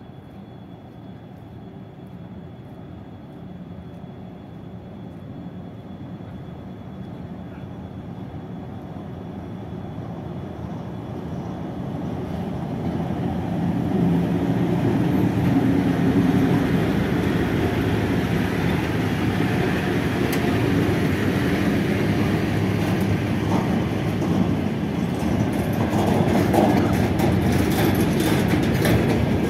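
VL10u electric locomotive with a freight train approaching slowly, its rumble growing steadily louder until it passes about halfway through. After that, the freight wagons keep rolling by, loud and steady, with a few sharp wheel clicks near the end.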